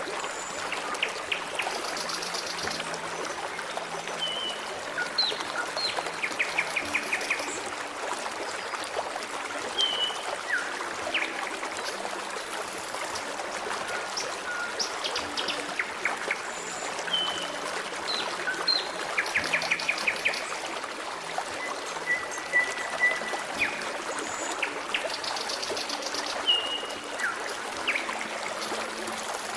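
A forest stream trickling and babbling steadily, with small songbirds chirping over it. Short chirps and quick trills come every few seconds.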